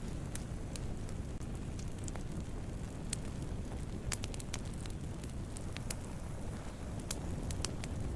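Wood campfire burning, a steady low rumble of flames with frequent sharp, irregular crackles and pops from the burning wood.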